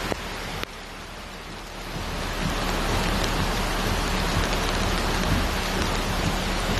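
Heavy rain pouring down, with a low rumble beneath it; it swells over the first two seconds and then holds steady.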